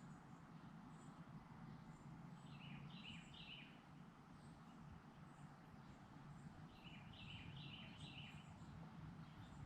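Faint outdoor quiet with a bird singing: a short phrase of quick descending chirps heard twice, once a few seconds in and again near the end, over a low steady rumble.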